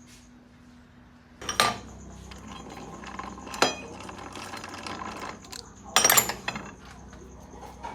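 Metal tools or parts clinking and clanking: three sharp metallic clinks, the middle one ringing briefly, over a steady mechanical hum that starts about a second and a half in.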